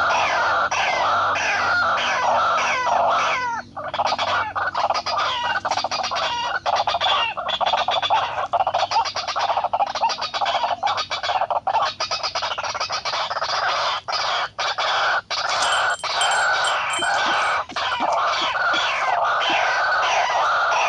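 White-breasted waterhens calling, a loud, unbroken run of fast repeated harsh notes with the calls overlapping one another.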